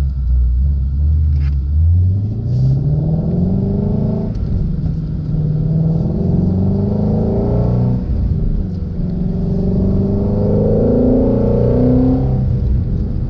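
Shelby GT350's 5.2-litre flat-plane-crank V8 accelerating hard through the gears. The engine note rises, drops at an upshift about four seconds in and again about eight seconds in, then climbs once more.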